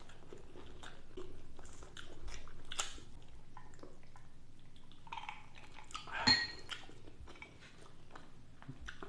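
Close-miked chewing during a mukbang: wet mouth clicks and smacks at an uneven pace, with one louder brief sound about six seconds in.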